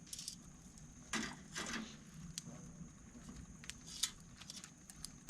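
Small wood campfire crackling with scattered sharp clicks, and two short rustling bursts about a second in.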